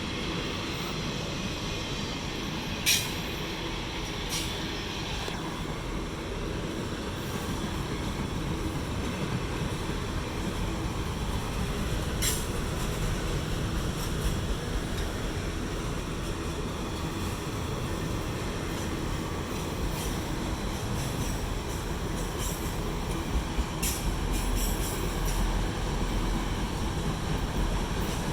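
Autorack freight cars rolling past: a steady rumble of steel wheels on rail, broken by a few brief sharp sounds, the loudest about three seconds in and several more near the end.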